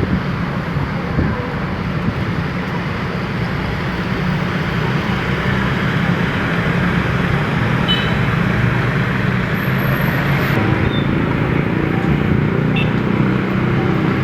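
Steady road traffic noise: vehicles running and tyres on the road, a constant hiss over a low hum, with a few faint short high tones midway.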